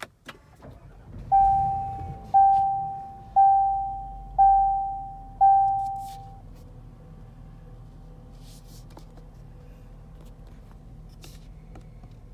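Land Rover Discovery started by push button: the engine catches and settles into a quiet, low idle. Over it a dashboard warning chime rings five times, about a second apart, each ring fading away.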